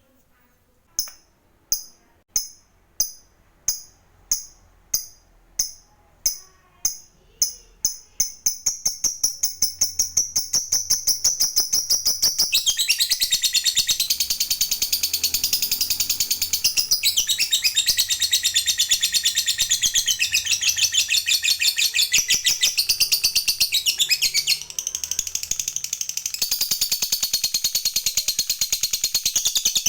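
Lovebird giving its 'ngekek' call. It starts as separate sharp chirps that speed up, and within about ten seconds they run together into a long, fast, high chattering trill. The trill breaks off briefly near the end, then carries on.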